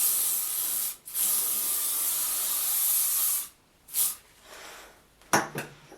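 Aerosol hairspray can spraying in three spurts: a short one, then after a brief gap a longer spray of about two and a half seconds, then a quick puff.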